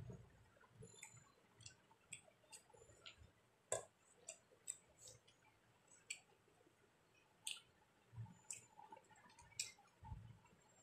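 Faint close-up eating sounds: irregular wet clicks and smacks of chewing and lip-smacking over mouthfuls of rice eaten by hand, with a few soft low thumps.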